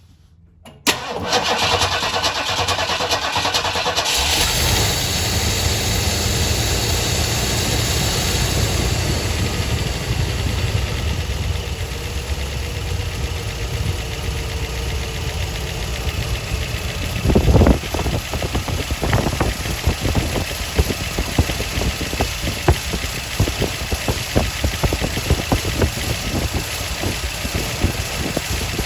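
A 1973 Ford Torino's 351 Cleveland V8, fed by a Holley Sniper EFI, is cranked by its starter about a second in, catches after a few seconds and settles into a steady idle. There is one brief louder burst about two-thirds of the way through. The owner suspects a fuel pressure problem behind the engine's lean stumble.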